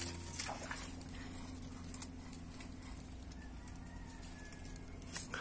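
Quiet pond-side background with a steady low hum. A faint, thin bird whistle is drawn out for about a second, some three seconds in.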